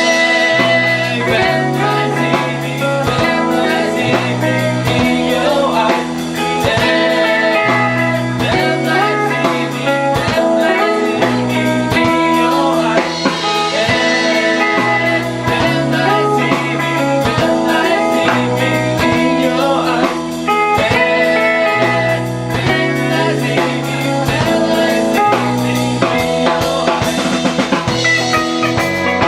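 Live band music: guitar, bass and drum kit playing a blues-rock tune, with a voice singing over it at times.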